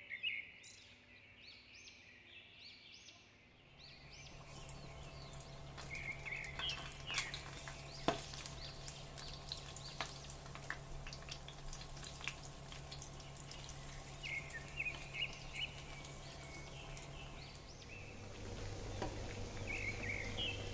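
Egg-and-crumb-coated bread patties frying in hot oil, a steady sizzle with fine crackles that starts about four seconds in.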